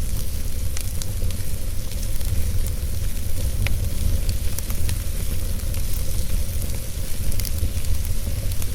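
Wood fire burning in a fireplace, with a steady low rumble and hiss and frequent small sharp crackles and pops scattered throughout.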